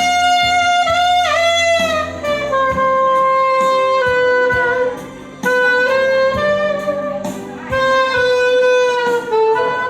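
Instrumental introduction: a saxophone plays a slow melody of long held notes with slides between them, over a steady low bass and chord accompaniment.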